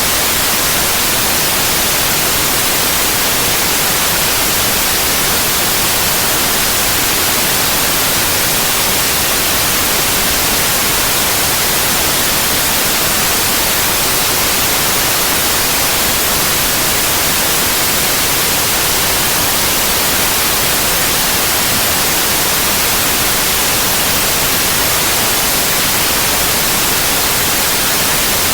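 Steady white noise: an even, unbroken hiss that is brightest in the high end and never changes.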